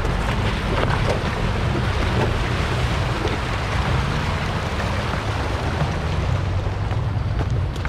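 Off-road vehicle engine running steadily while driving, with wind and occasional faint clicks.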